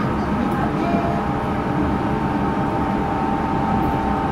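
Yurikamome automated guideway train running on its rubber tyres, heard from inside the car: a steady running rumble, with a steady high whine that comes in about half a second in and holds.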